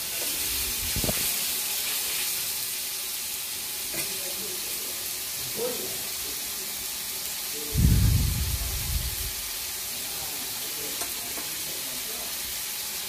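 Grated tomato and turmeric masala sizzling steadily in hot oil in a kadai, with a spatula stirring briefly at the start. A dull low thump about eight seconds in.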